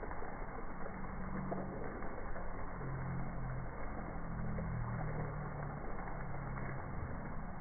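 Rain, slowed down: a steady, dull hiss with scattered faint drop ticks. Low wavering tones come and go through the middle.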